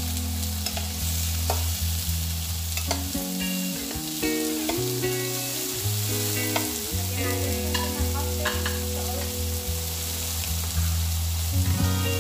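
Shrimp sizzling in butter in a hot frying pan as they are stirred, with a spatula scraping and clicking against the pan now and then. Sustained background music notes run underneath.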